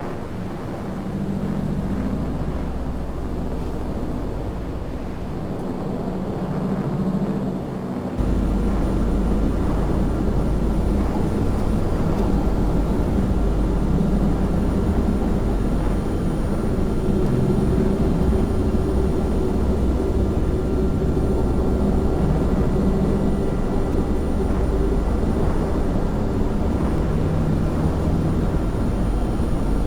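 Steady engine drone with a heavy low rumble and a few held tones, stepping up louder about eight seconds in.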